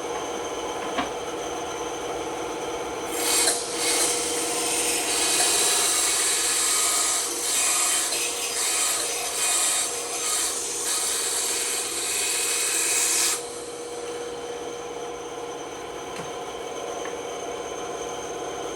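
Bandsaw running with a steady hum. From about three seconds in to about thirteen seconds its blade cuts through wood with a loud hissing rasp, then the saw runs free again.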